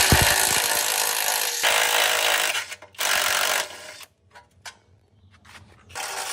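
Power tool running in bursts that start and stop sharply: one of about two and a half seconds, a shorter one about three seconds in, and a weaker brief one near the end.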